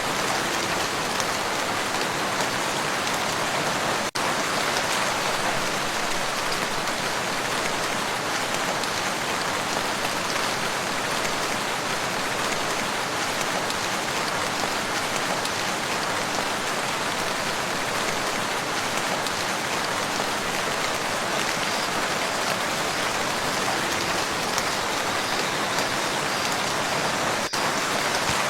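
Steady rain falling on a lake and its shore, an even hiss of countless drops. There is a momentary dip in level about four seconds in and again near the end.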